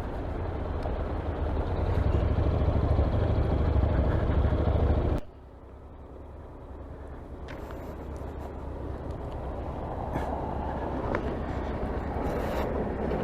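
Motorcycle riding noise picked up by a helmet-mounted camera: a steady rush of wind and engine with a heavy low end. About five seconds in it drops suddenly, then builds up again gradually.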